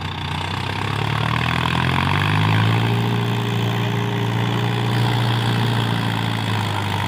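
Mahindra Yuvo tractor's diesel engine running, rising in pitch and loudness over the first two seconds, then holding a steady note.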